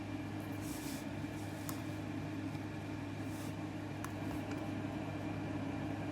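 Steady low mechanical hum, with a few faint clicks and two short soft hisses.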